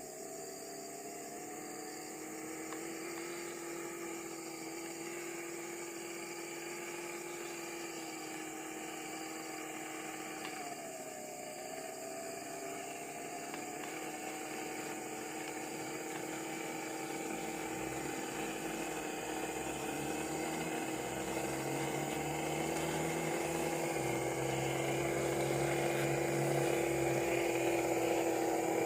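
Small electric motor and gearbox of a radio-controlled truck whining steadily, dipping in pitch briefly about eleven seconds in and growing gradually louder, with a low rumble joining in past the halfway mark.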